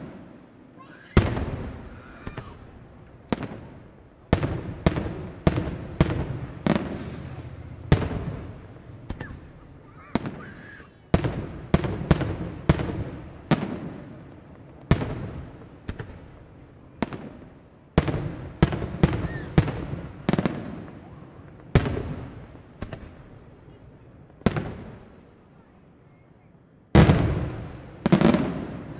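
Aerial firework shells bursting one after another, a sharp bang roughly every second, each trailing off in echo; the loudest two come close together near the end.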